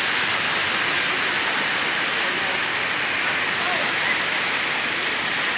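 Steady rushing wind noise buffeting the microphone of a moving motorcycle, even and unbroken.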